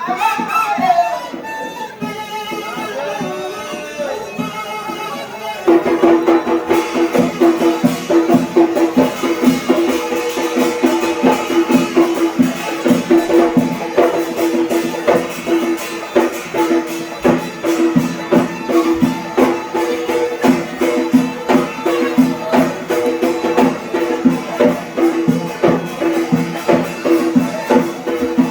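Yemeni mizmar (reed pipe) playing a traditional wedding tune. About six seconds in it becomes louder and is joined by a fast, steady drum beat.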